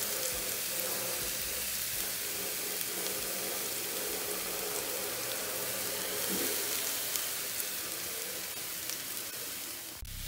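Seasoned chicken tenders sizzling in hot olive oil in a nonstick skillet on medium heat: a steady frying hiss with light crackles. It drops out for a moment near the end.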